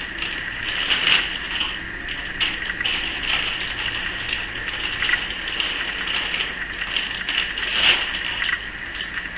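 Dry, crispy chow mein noodles crackling and rustling in a continuous patter of small clicks as they are worked into melted chocolate in a bowl.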